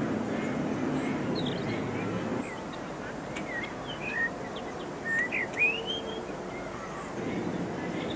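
Small birds chirping in a string of short, quick calls, some rising in pitch, loudest a little past the middle. A low, steady background noise fills the first couple of seconds and then drops away.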